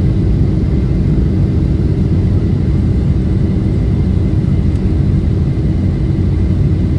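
Steady cabin noise of a Boeing 737-700 in descent: a constant low rumble of engines and airflow, with a faint steady hum running through it.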